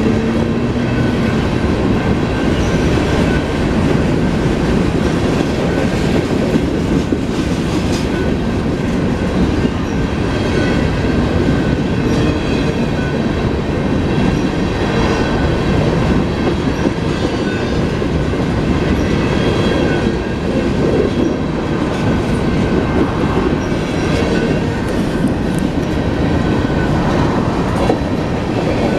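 Union Pacific freight train of hopper cars rolling steadily past, its steel wheels clattering over the rail joints.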